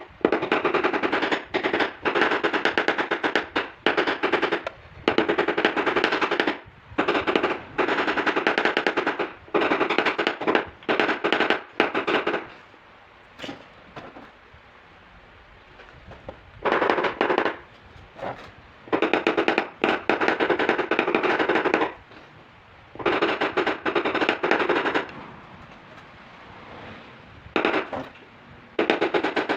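Rapid-fire tapping on a car's sheet-metal body panel in bursts of one to three seconds, separated by short pauses, as a dent along a body line is tapped down.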